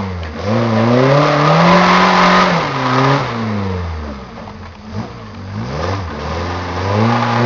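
Suzuki Samurai's engine revving hard, rising to high revs, easing off, then revving up again near the end, as the 4x4 struggles for grip in deep mud with its wheels digging rather than climbing.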